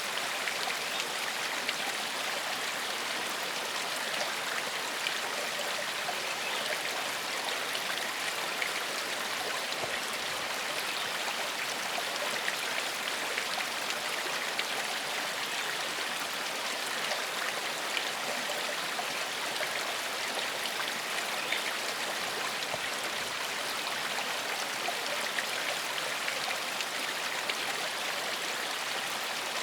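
Stream flowing steadily over stones: an even rush of water with many small splashes and trickles.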